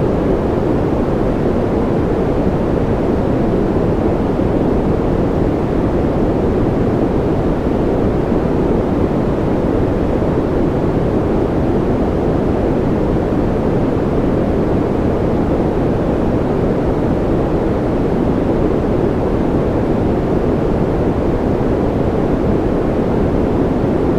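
A steady generated noise track, an even, unbroken rushing hiss weighted toward the low end, so it sounds deep rather than bright. It does not vary or pause.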